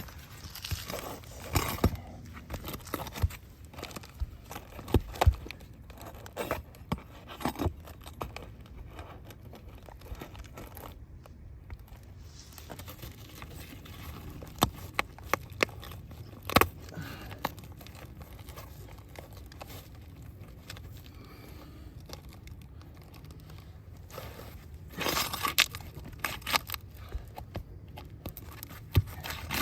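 Roof shingles being handled, pried and peeled up: scattered crackles, scrapes and small tearing sounds, with a busier run of crackling near the end.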